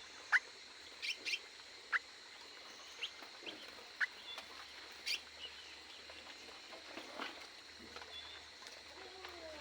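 Several small birds calling: short, sharp chirps about once a second, many of them quick downward notes, over a steady high-pitched tone.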